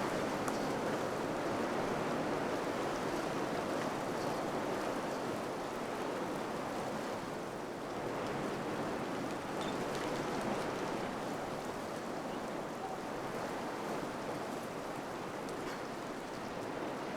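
Wind blowing steadily in a rushing noise that swells and eases a little, with a few faint ticks.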